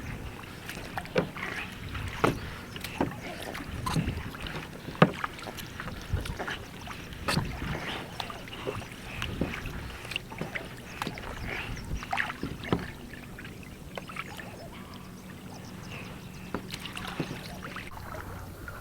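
Kayak being paddled: irregular knocks and clicks of the paddle and gear against the plastic hull, with water sounds, thinning out after about thirteen seconds.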